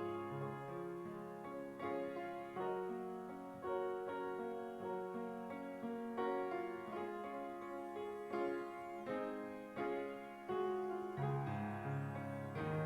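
Piano playing slow, gentle chords, a new chord struck about every second and left to ring.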